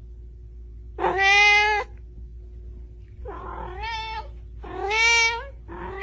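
A cat meowing: about four long, drawn-out meows in a row, the last one running on at the end.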